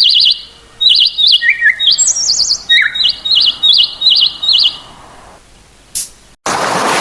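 A bird singing a run of short, rapid trilled chirps at several different pitches, stopping about five seconds in. A loud, steady rushing noise cuts in suddenly near the end.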